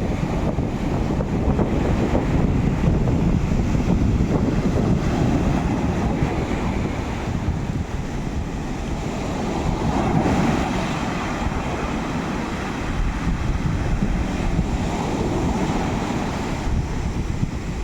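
Sea waves surging and washing ashore, with wind buffeting the microphone in a heavy low rumble. The surf swells louder about ten seconds in.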